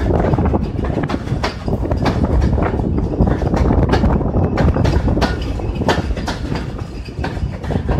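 Pakistan Railways passenger train running along the track, heard from an open coach window: a steady rumble with frequent sharp clicks and clatter of the wheels over the rails.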